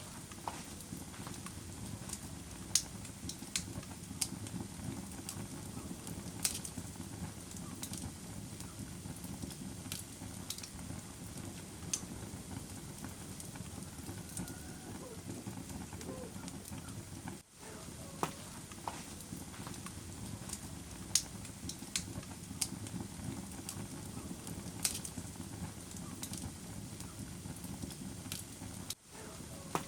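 Wood fire crackling in a fireplace: a steady low rumble of flames with scattered sharp pops and snaps, cutting out for an instant about two-thirds of the way through.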